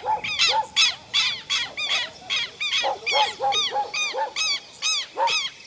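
Birds calling in a rapid, insistent series, about three short arched calls a second, with lower-pitched calls mixed in from about three seconds in.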